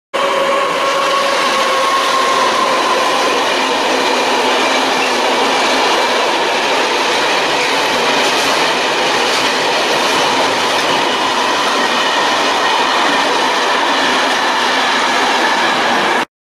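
Freight train of open wagons passing at speed: a loud, steady rush of wheels on rail with some wheel squeal over it. It cuts off suddenly near the end.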